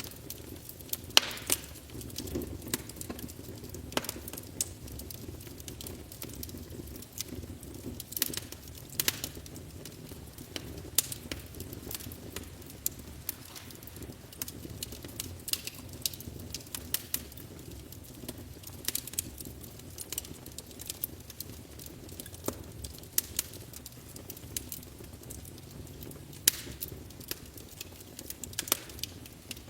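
Wood fire burning in a fireplace, crackling with irregular sharp pops and snaps over a steady low rumble of flame.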